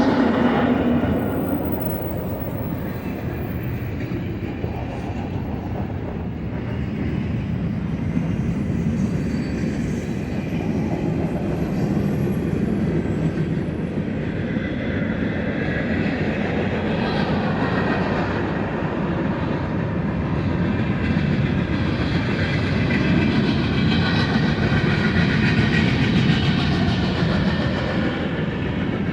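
A freight train's cars rolling steadily past, wheels running on the rails.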